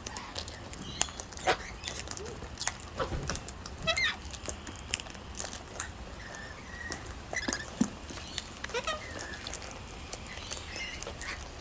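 Feeding cockatoos and lorikeets giving scattered short squawks and chirps, among many small clicks and rustles.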